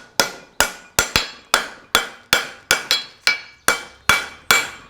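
Farrier's hammer striking a hot steel horseshoe on an anvil, straightening out a toe bend: a steady run of blows about three a second, each with a metallic ring.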